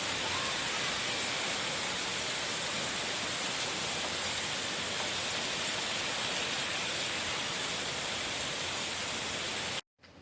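Heavy rain pouring down in a steady, even hiss, which cuts off abruptly near the end.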